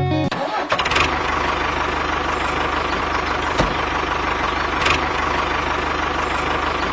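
Mini tractor's engine starting abruptly about a third of a second in, then running steadily with a fast, even chug.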